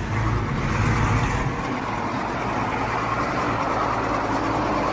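Engine of a vehicle stuck in mud running steadily.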